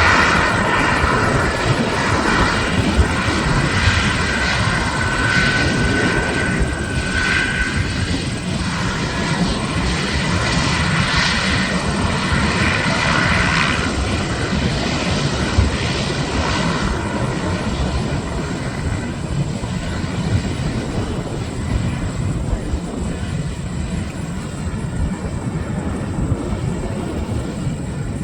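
Twin Pratt & Whitney PT6A turboprop engines of a Beechcraft King Air 360 running, a whining tone over a steady propeller-and-turbine noise. The sound is loudest at the start and fades steadily as the aircraft moves away.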